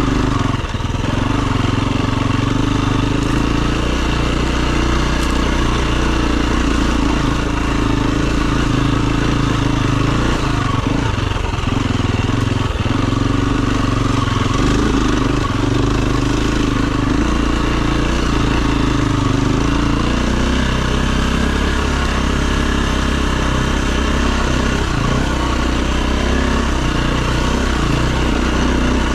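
Dirt bike engine running continuously under throttle while riding, its note holding fairly steady with a few brief dips.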